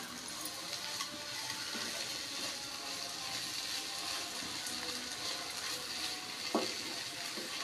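Ridge gourd and grated coconut stir fry sizzling in a nonstick pan as a wooden spatula stirs it: a steady frying hiss with a sharper knock of the spatula about six and a half seconds in.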